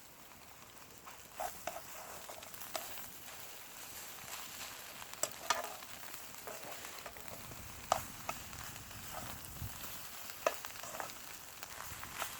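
Egg and green-onion batter sizzling in an oiled frying pan over a wood fire, a steady hiss with scattered sharp crackles and ticks.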